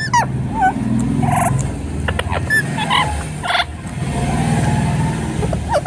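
A parrot giving a string of short squawks and whistled calls, some gliding up or down in pitch, over a steady low rumble.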